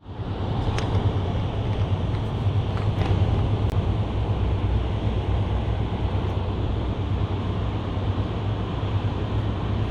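Steady low rumbling outdoor noise that starts abruptly, with a few faint clicks over it.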